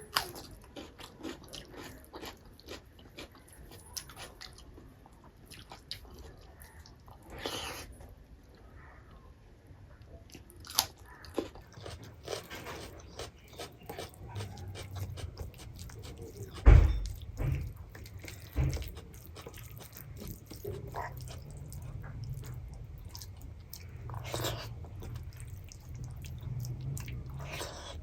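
Close-miked eating sounds: chewing and biting with small wet mouth clicks and an occasional crunch. There are a few low thumps about halfway through.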